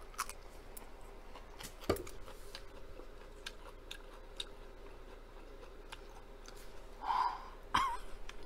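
Mouth sounds of someone chewing a hot jalapeno popper: scattered wet clicks and smacks, a louder one about two seconds in. About seven seconds in comes a breathy exhale and then a brief high vocal sound, a reaction to the chili heat.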